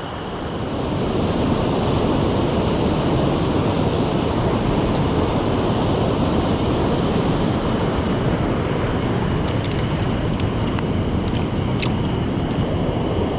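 Mountain stream water rushing over rocks, a steady noise that gets louder about a second in.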